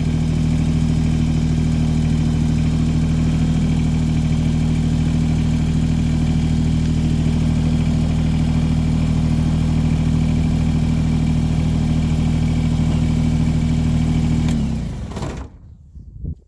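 Tractor engine running at a steady speed, heard close up, then shut off near the end, dropping in pitch as it winds down to a stop.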